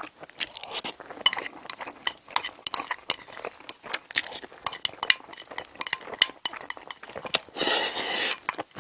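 Metal cutlery clinking and scraping against a dish while scooping stir-fried rice, many small sharp clicks in quick irregular succession. A brief hissing noise lasts about a second near the end.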